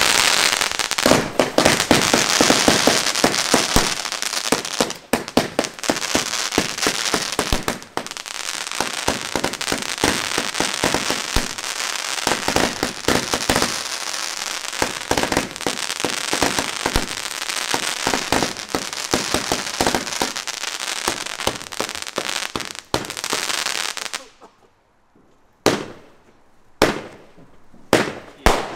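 Several strings of firecrackers going off together in a dense, rapid crackle of bangs for about 24 seconds, which stops suddenly. A few single bangs follow, spaced about a second apart, near the end.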